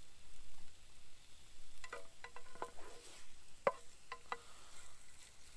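A utensil clinking and tapping against cookware while eggs are stirred for breakfast: a run of about eight light, ringing clicks through the middle, the sharpest about three and a half seconds in.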